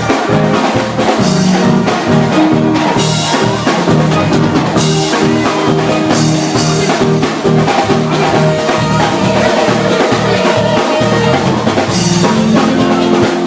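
Live gospel band playing an up-tempo instrumental passage: drum kit with a bass line, sustained chords and repeated cymbal crashes.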